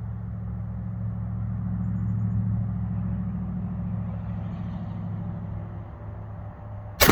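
A steady low engine hum from a running vehicle, swelling a little and then easing off, ended right at the close by a single loud shotgun blast.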